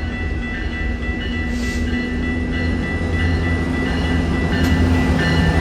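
Train running by with a heavy low rumble and a few steady tones, growing gradually louder.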